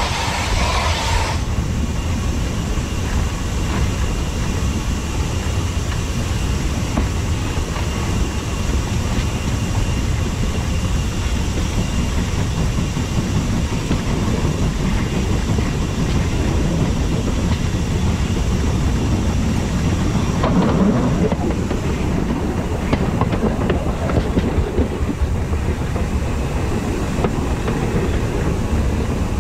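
Heritage steam train running on metre-gauge track: a steady low rumble of wheels on rails with clickety-clack from the rail joints. A hiss at the very start cuts off about a second in.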